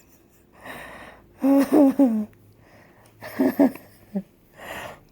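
Playful non-speech vocal noises from a man: breathy, wheezing huffs and two clusters of short, wavering voiced sounds.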